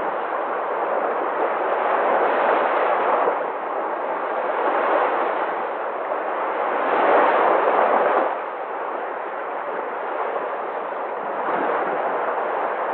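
Sea waves washing ashore: a continuous rush of surf that swells and eases every few seconds, with the biggest wave about seven seconds in.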